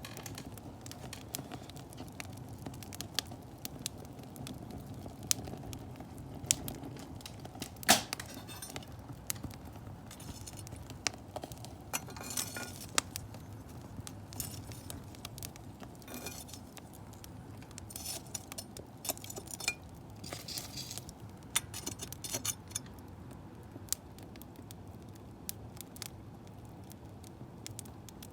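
Wood fire burning in the firebox of a wood-fired bath: irregular sharp crackles and pops over a low steady rumble of the flames, with one loud snap about eight seconds in.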